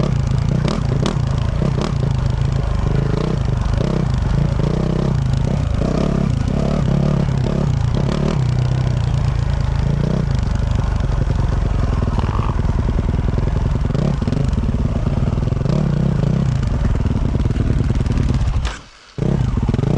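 A 2024 Yamaha YZ450F's 450 cc single-cylinder four-stroke engine, fitted with a Yoshimura RS-12 exhaust, running under constantly changing throttle while being ridden, with scattered clicks and knocks. The sound drops out briefly about a second before the end, then the engine comes back.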